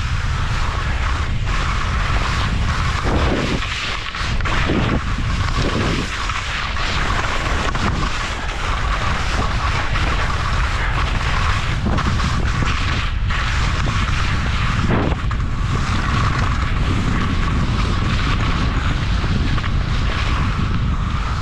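Wind buffeting the microphone: a continuous low rumble with a steady hiss above it.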